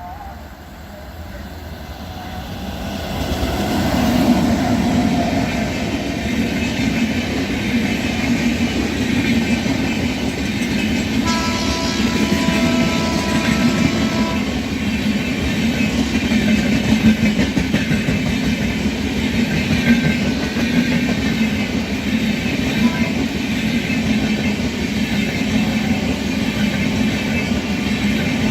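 WAP-7 electric locomotive at the head of an express train draws near over the first few seconds, then the train's coaches roll past with a steady rumble and wheel clatter. About eleven seconds in, the locomotive's horn sounds one held, multi-note blast of about three seconds. A brief toot comes near the end.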